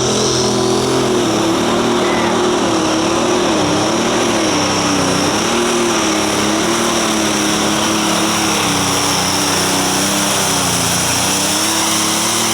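Turbocharged diesel engine of a John Deere limited pro stock pulling tractor running flat out under full load down the track. The engine note wobbles slightly in pitch, with a steady high turbo whistle over it.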